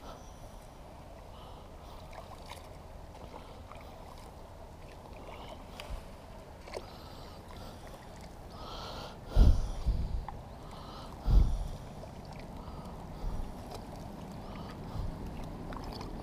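Kayak being paddled on calm water: soft water noise with two loud, low knocks just past the middle and a few fainter ones after, from the paddle and hull.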